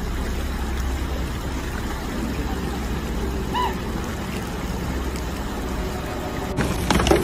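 Steady rushing of flowing floodwater, with a single short chirp partway through. Near the end a louder sound full of rapid clicks takes over.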